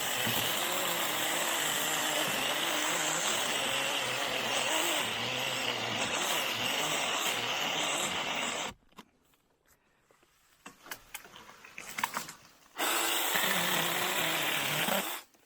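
Small 6-inch cordless mini chainsaw on a DeWalt battery running steadily through saplings, stopping about two-thirds of the way in. After a few seconds of small cracks and clicks it runs again for about two and a half seconds, then cuts off.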